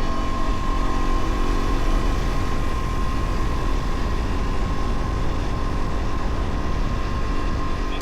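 Dirt bike engine running steadily while riding, with a steady whine and wind rumble on the microphone.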